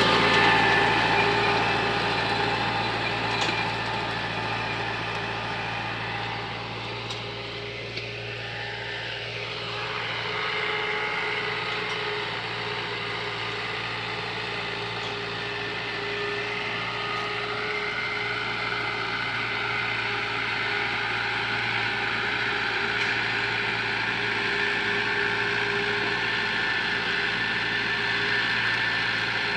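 Tractor diesel engine running steadily while pulling a harrow through the field, fading as it moves away and growing louder again from about ten seconds in.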